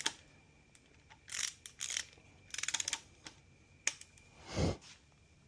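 Ratchet torque wrench turning down a main bearing cap bolt on a Continental Z134 engine block: a click, two short rasping strokes, then a quick run of ratchet clicks, a sharp tick and a dull thump near the end.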